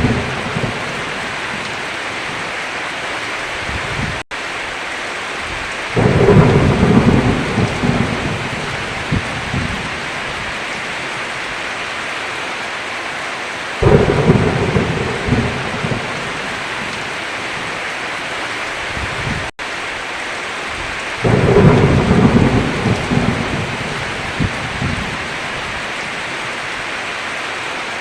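Heavy rain falling steadily, with thunder rumbling three times, each clap starting suddenly and fading over several seconds. The sound cuts out for an instant twice.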